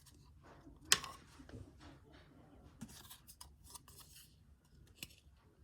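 Baseball trading cards being handled and slid against each other: faint rustling with scattered light clicks, and one sharper snap about a second in.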